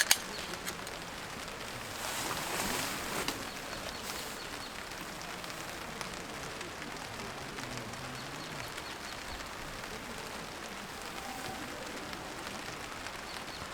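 Steady rain falling, with many fine drop ticks, and a brief louder rush of noise about two to three seconds in.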